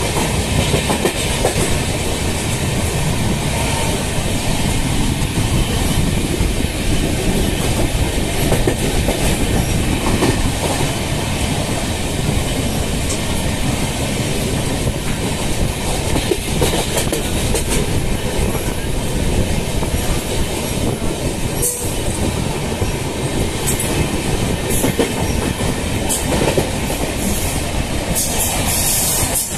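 Passenger train in motion, heard from inside a carriage at the window: a steady, loud rumble and clatter of the wheels on the rails, with a few brief high hisses near the end.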